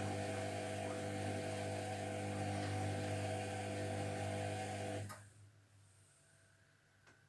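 Zerowatt/Hoover Performa 1000 washing machine's motor running with a steady hum during the main wash, cutting off suddenly about five seconds in; a single faint click follows near the end.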